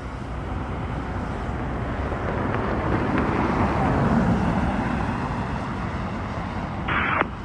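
Boeing 757 freighter jet on landing approach, its engine noise swelling to a peak about four seconds in and then fading away.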